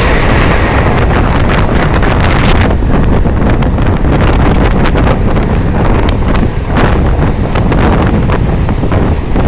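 Strong wind blowing across the microphone: a loud, steady rumbling hiss with frequent crackling buffets.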